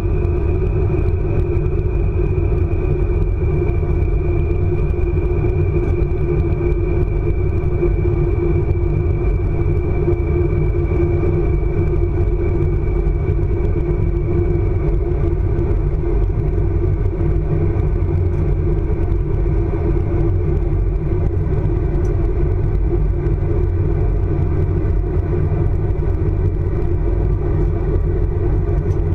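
ICE high-speed train running at speed, heard from on board: a steady, loud rumble, with a thin high whine that slowly drops in pitch and fades out about halfway through.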